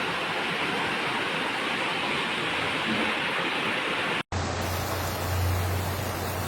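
Steady loud rush of water, like floodwater pouring past. About four seconds in it cuts off abruptly to another stretch of rushing noise with a low steady hum under it.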